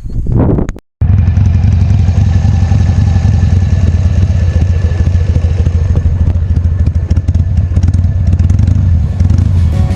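Harley-Davidson Sportster V-twin motorcycle engine running steadily with a deep, even rumble. It starts about a second in, after a brief clatter and a moment of silence.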